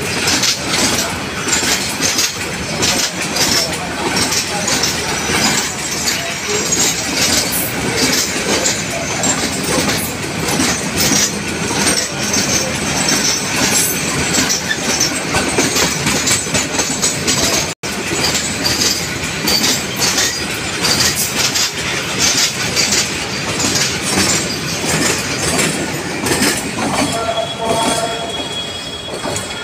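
A freight train of kerosene tank wagons rolling past close by: steady clatter of wheels over rail joints, with high metallic wheel squeal at times. Near the end the brake van at the tail of the train goes by. The sound cuts out for an instant a little past halfway.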